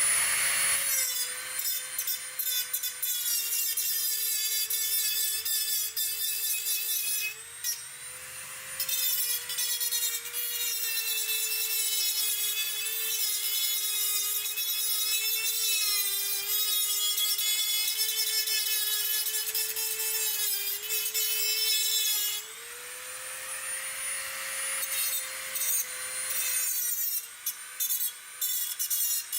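High-speed handheld power grinder running with a steady whine that dips in pitch now and then as it bears down, grinding on the steel frame of the bench amid a continuous gritty hiss. It pauses briefly twice, once about seven seconds in and again about twenty-two seconds in.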